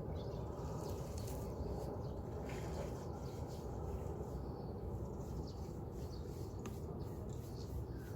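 Outdoor dawn ambience at a pond: a steady low rumble, with faint, brief bird calls here and there.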